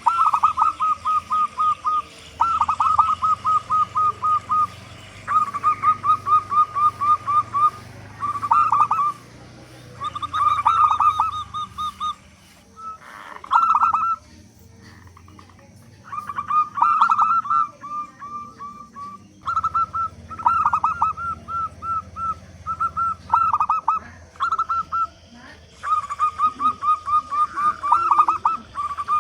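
Local zebra dove (perkutut) calling loudly: bursts of rapid, short cooing notes, each burst a second or two long, repeated over and over with brief pauses.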